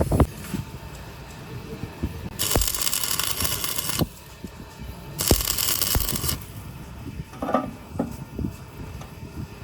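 Two bursts of hissing, each a little over a second long, among scattered light metallic clicks and knocks from work on compressor parts.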